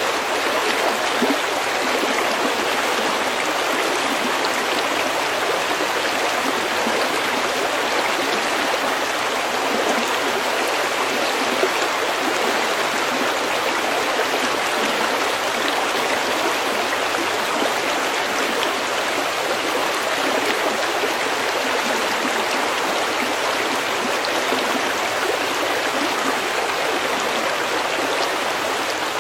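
Stream water flowing over pebbles, a steady, unchanging rush with fine splashing.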